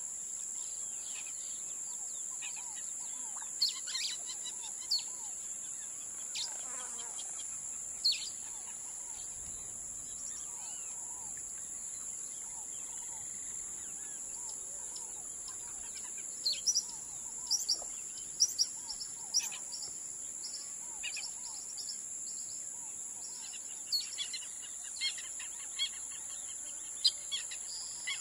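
Wild birds chirping and calling in short, sharp notes, few at first and much busier in the second half, over a steady high-pitched hiss.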